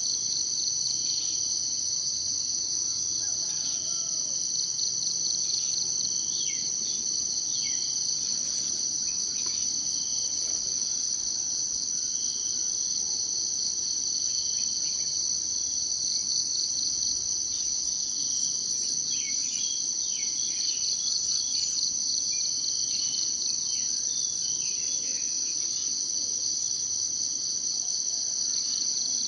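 Steady, high-pitched insect chorus, a continuous fast-pulsing trill, with faint short bird chirps scattered through it.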